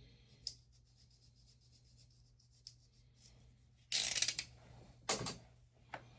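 Close handling noises of small model parts: a light click, then a loud scraping rub about four seconds in, a shorter rub a second later and another click near the end.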